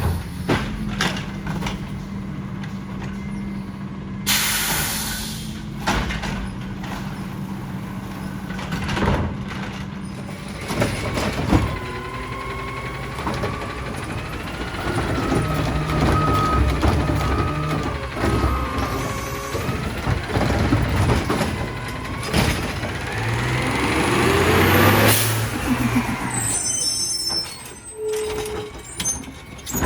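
Side-loader garbage truck at work: a sharp air-brake hiss about four seconds in, scattered knocks and clanks, then the engine revving hard for several seconds with a steady whine over it, and the revs climbing again near the end.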